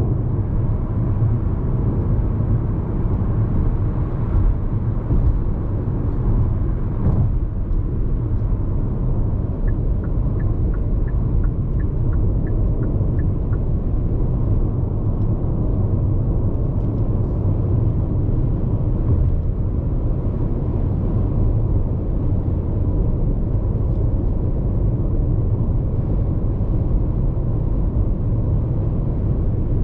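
Steady tyre road noise and low rumble heard inside the cabin of a Hyundai IONIQ 5 AWD electric car cruising at expressway speed. Near the middle comes a short run of light ticks, about two a second, for a few seconds.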